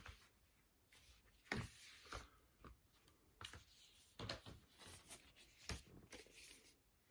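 Faint rustling and soft knocks of vinyl record sleeves and cardboard packaging being handled, in a scatter of short sounds.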